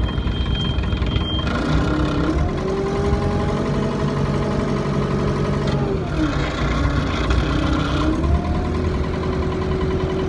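Farm tractor engine running under the driver's cab, revved up and back down twice, with a whine that rises and falls with engine speed.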